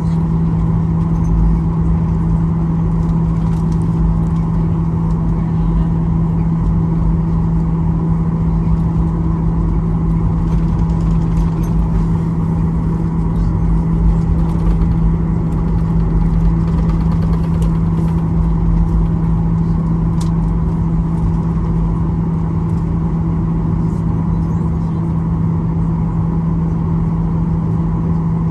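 Boeing 737-800's CFM56-7B jet engines running, heard from inside the passenger cabin as a loud, steady noise with a constant low hum.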